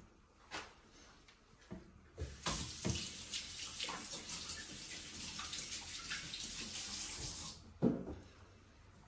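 Kitchen tap running into the sink for about five seconds, then shut off abruptly, followed by a single knock.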